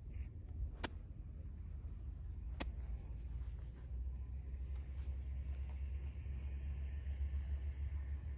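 Quiet outdoor ambience: a low steady rumble, faint short high chirps repeating about once a second, and two sharp clicks about one and two and a half seconds in.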